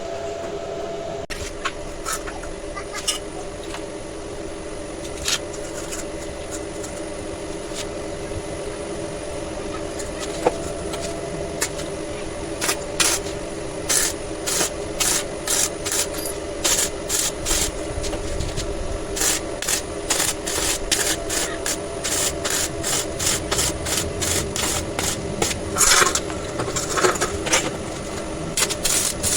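Hand rubbing or filing strokes on a hard surface, sparse at first, then quicker from about halfway, roughly two strokes a second, over a steady hum.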